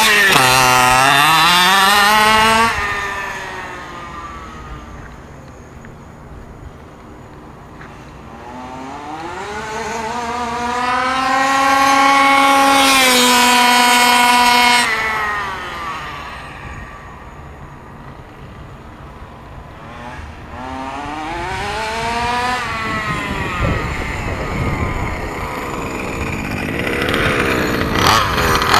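HPI Baja 5B 1/5-scale RC buggy's two-stroke petrol engine at full throttle: the engine note climbs as it accelerates, then fades as the buggy runs off into the distance. It comes back louder around ten seconds in, holds a high steady note, then drops sharply and fades, before another run climbs again near the end.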